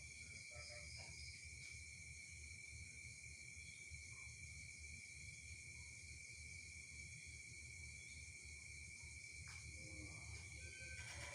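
Faint, steady high-pitched insect chirring over a low background rumble.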